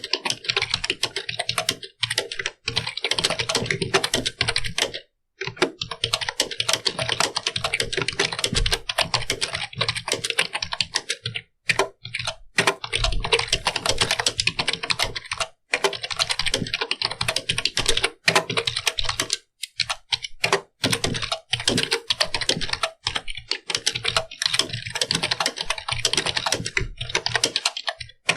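Fast, continuous typing on a computer keyboard: a dense run of key clicks with short pauses every few seconds.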